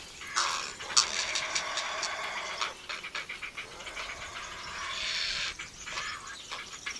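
Grey heron chicks giving harsh, rasping begging calls at the nest, mixed with sharp clicks, as they scramble for food the parent regurgitates.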